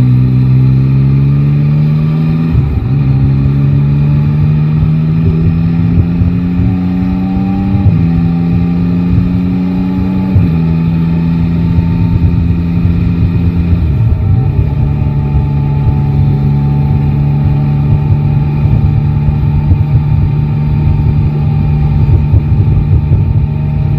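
Yamaha Tracer 9 GT's three-cylinder engine pulling up through the gears. The pitch climbs and drops at each upshift, four times, then it holds a steady cruise for the last ten seconds.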